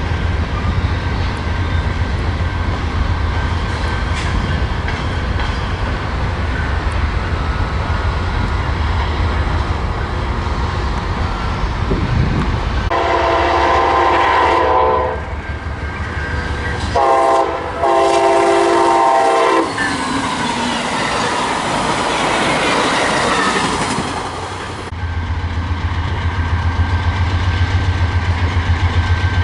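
Diesel train rumbling past with the clatter of its wheels. Its multi-chime horn sounds a long blast about halfway through, then a short toot and another long blast, and the deep engine rumble swells again near the end.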